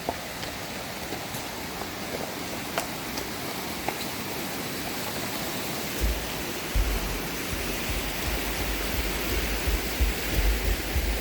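Steady rushing noise with a few faint clicks. From about six seconds in, an uneven low rumble joins it.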